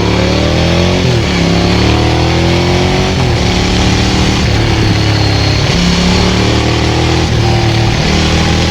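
Ducati 900SL's air-cooled two-valve V-twin through a Termignoni full exhaust, pulling hard under way. Its pitch climbs and drops back at two gear changes in the first three seconds, then it runs steadier with smaller rises and falls in revs.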